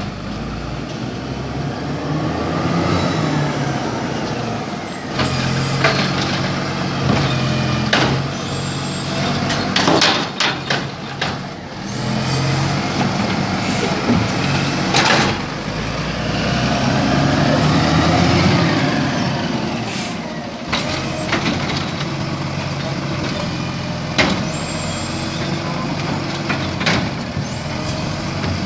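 Garbage truck at work: its diesel engine running and rising and falling in pitch, with several sharp clanks and air-brake hisses scattered through.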